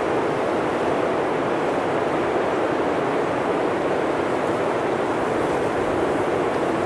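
Blizzard wind blowing steadily, a continuous deep rush with no gusts or breaks.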